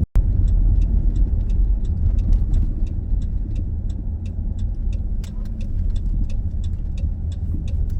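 Road noise inside a moving van's cabin: a steady low rumble, with a light, even ticking about three times a second over it.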